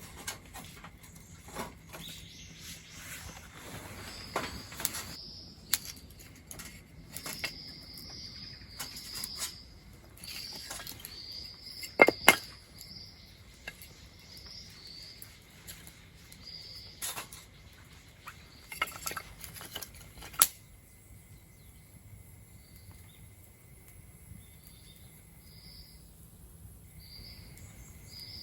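Wood crackling and snapping as a newly lit campfire catches, with irregular sharp pops that stop about two-thirds of the way through. Short bird chirps repeat throughout, over a faint steady insect drone.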